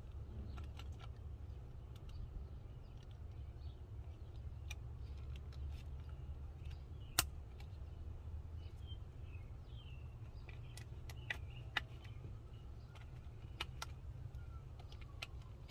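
Scattered sharp clicks and taps of hands working on a car door's plastic wiring connectors and switch panel, the loudest about seven seconds in and two more about four seconds later. Birds chirp throughout over a steady low hum.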